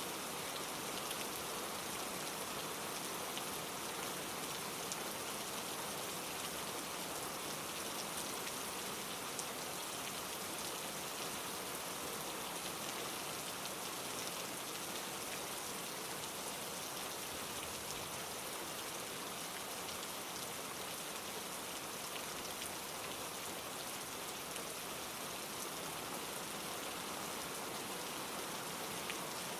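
Steady rain: an even hiss of falling rain with faint ticks of single drops, holding at one level.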